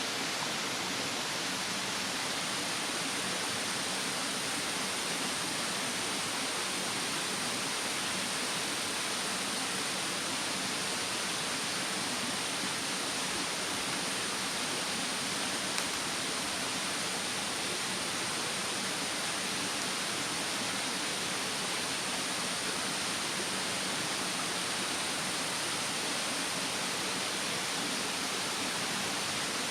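Steady rushing of a mountain stream, an even unbroken wash of water noise, with a single faint crackle from the bonfire about halfway through.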